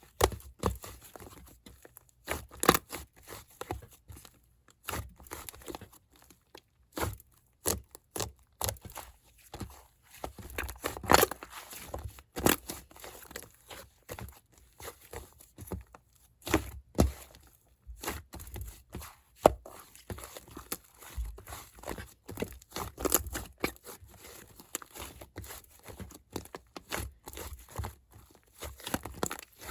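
Giant fluffy slime being squished, pressed and stretched by hand, giving irregular sticky crackles and small air-bubble pops.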